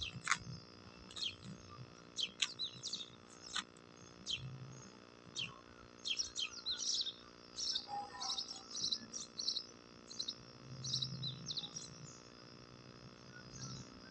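Small birds chirping: many short, high chirps repeated at irregular intervals, busiest in the second half.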